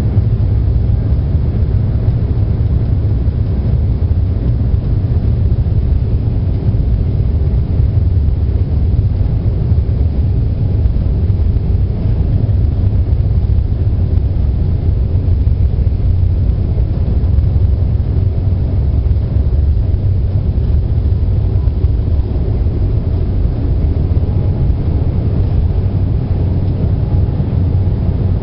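Airliner cabin noise in flight: a steady low rumble of the engines and rushing air, unchanging throughout.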